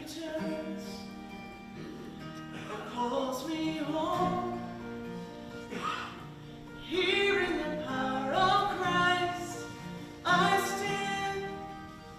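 Music: a slow song sung with held, wavering notes over instrumental accompaniment, in phrases that swell about three times.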